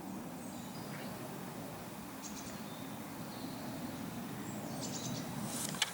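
Outdoor ambience: a steady low background rumble with faint, short bird chirps now and then, and a single sharp click near the end.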